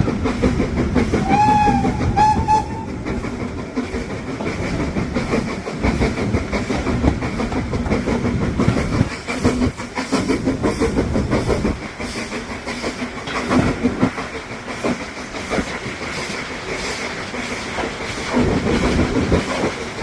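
Heritage railway train in motion, heard on board: a steady rumble of wheels on the track with regular clickety-clack as they cross rail joints.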